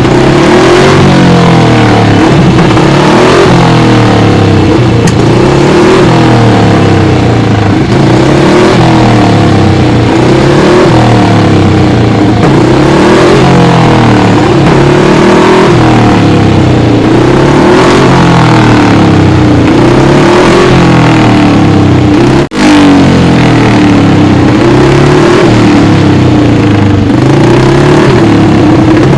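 1956 Moto Guzzi 350 Bialbero's single-cylinder twin-cam racing engine, loud and revved over and over, its pitch climbing and falling every second or two. There is one brief dropout about two-thirds of the way through.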